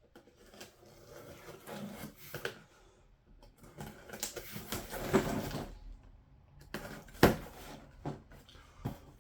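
Parts of a diesel heater kit being handled and unpacked: rustling and light clattering with scattered clicks, and one sharp knock about seven seconds in.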